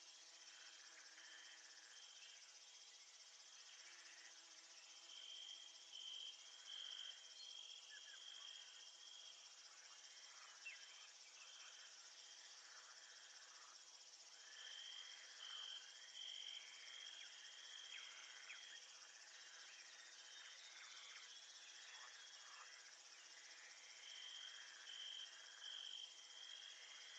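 Faint insect chorus of crickets making a steady high-pitched hiss. One louder cricket trills in bouts of a few seconds, about every ten seconds.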